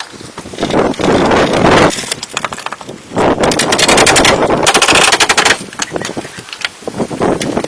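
A power tool cutting into hardwood in several bursts, the longest, about three to five and a half seconds in, with a fast, even rattle.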